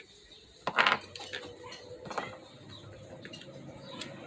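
Metal parts of an angle grinder clinking and rattling as they are handled, with one sharp clink just under a second in and a few lighter clicks after it.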